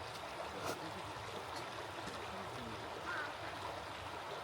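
Small stream running steadily, with a couple of faint, short calls from water birds.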